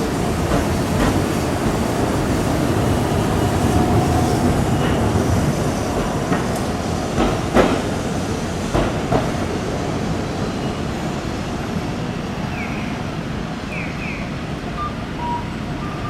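Hiroden streetcar running on street track, with a steady rumble and a few sharp knocks from the wheels about seven to nine seconds in.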